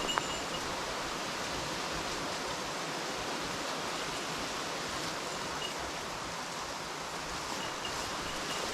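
Steady rushing of a mountain stream, an even hiss that does not let up.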